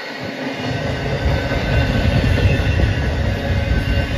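Intermodal freight train of container well cars rolling past, its wheels and trucks rumbling on the rails, with a heavier low rumble coming in about half a second in.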